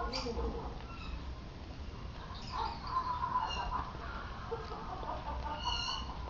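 Bird calls, repeated short pitched notes, with a brief high call near the end, over a steady low hum.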